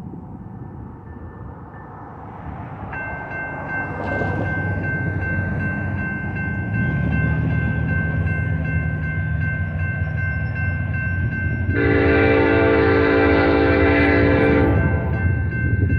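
Railroad crossing bell starts ringing about three seconds in, while an approaching freight train's diesel locomotive rumbles steadily closer and louder. About twelve seconds in the locomotive sounds one long horn blast lasting about three seconds.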